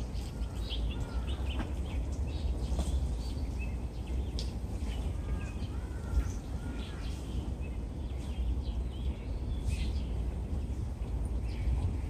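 Several birds chirping, with short calls scattered through the whole stretch, over a steady low rumble of background noise.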